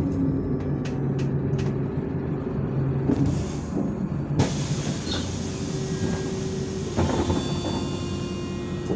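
Inside a MAZ-103 city bus under way: the engine running steadily with road and body noise. There are a few light clicks in the first two seconds, a sudden rise in hiss about halfway through, and a knock near the end.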